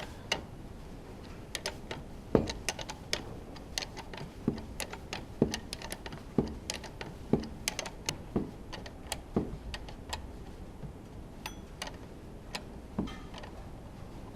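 Irregular sharp metallic clicks and light knocks, a few a second with some louder strikes, from hand tools and parts being handled during the teardown of a Honda Formula One engine.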